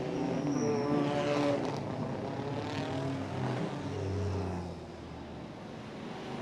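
Racing car engines passing at reduced pace behind the safety car, their pitch rising and falling in the first two seconds, then a lower engine drone about four seconds in.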